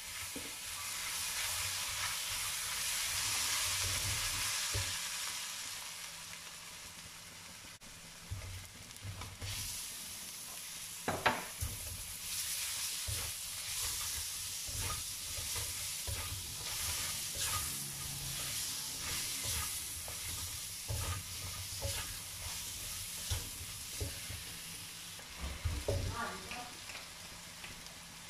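Minced garlic sizzling in hot oil in a wok, stirred with a silicone spatula. Scattered clicks and knocks of the spatula against the pan sound through it, the sharpest about eleven seconds in.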